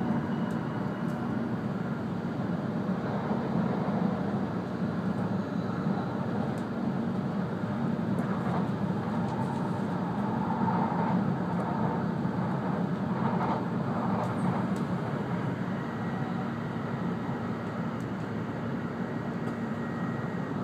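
E2-series Shinkansen running at speed, heard inside the passenger cabin: a steady low rumble of wheels and running gear, with a few faint ticks.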